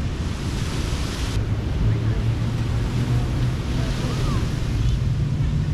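Surf washing onto a sandy beach, with wind rumbling on the microphone. A low steady hum comes in about a second and a half in.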